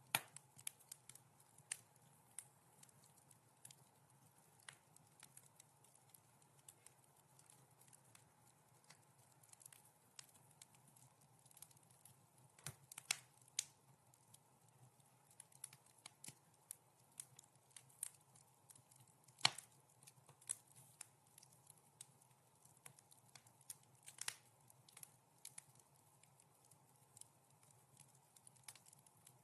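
Wood fire crackling softly, with irregular sharp pops and snaps, a few louder ones about a second in, around 13 seconds and near 19 seconds, over a faint steady low hum.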